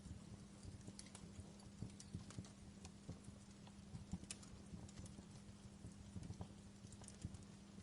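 Wood fire crackling in a fireplace: faint, irregular small pops and snaps over a steady low hum.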